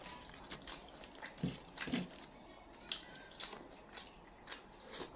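Close-up eating sounds: chewing and lip-smacking with scattered short wet clicks, as a fish head is eaten by hand.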